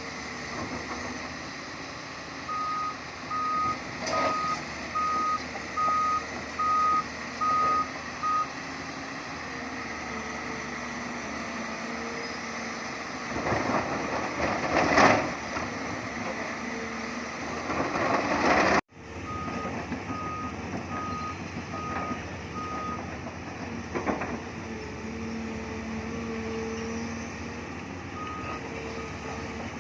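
Heavy construction machinery running, its diesel engine pitch shifting under load, with a reversing/travel alarm beeping a little over once a second in two runs, early on and again after a brief break. Two loud, harsh bursts of noise stand out around the middle.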